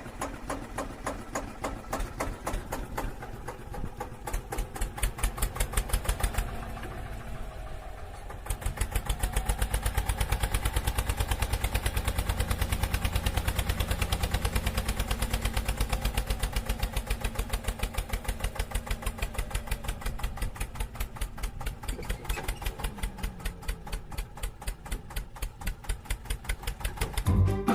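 Tractor engine running with a fast, even knocking beat, louder and steadier from about eight seconds in.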